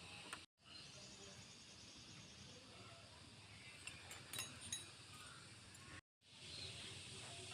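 Faint steady background hiss with a few light clicks a little past the middle, broken twice by a brief total dropout where the audio cuts out.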